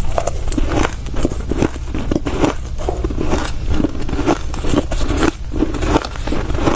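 Soft crushed ice being bitten and chewed, a rapid, irregular run of crunches.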